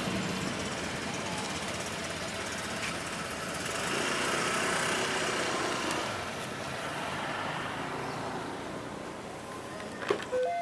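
Multiple-unit passenger train running along the track away from the listener, a steady rumbling noise that swells briefly midway and then fades. A few clicks come near the end, and a clear two-note tone starts just as it ends.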